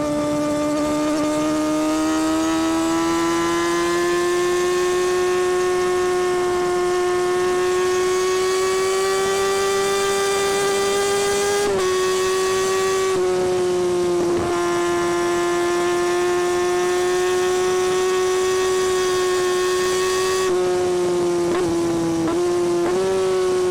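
2017 Kawasaki Ninja ZX-6R's inline-four engine and exhaust running at high, steady revs under way, the pitch climbing slowly for about twelve seconds. The pitch dips briefly about halfway through, then holds, and wavers up and down a few times near the end.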